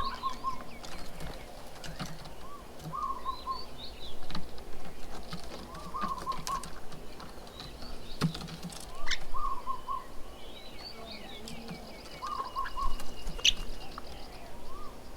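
Birds calling at a garden bird table: one bird repeats a short phrase of three or four quick notes about every three seconds, with higher chirps and twitters from other birds between and a few sharp taps.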